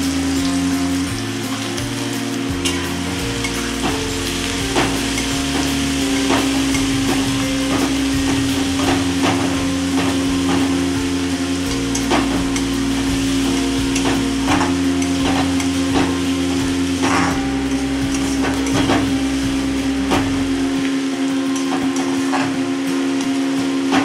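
Chopped onions sizzling in hot oil in a large metal kadai, stirred with a metal spatula that scrapes and knocks against the pan about once a second. A steady low hum runs underneath.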